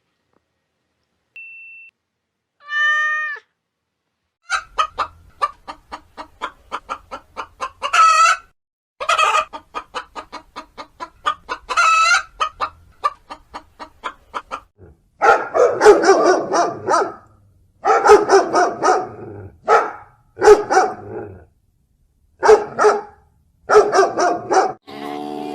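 Chickens clucking and cackling: a fast run of short clucks broken every few seconds by a longer rising squawk, then from about halfway through louder, harsher calls in short groups.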